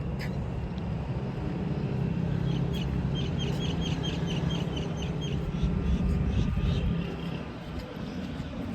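A car engine running steadily with a low, even drone. About two and a half seconds in, a quick run of short high chirps, about five a second, lasts for around two seconds.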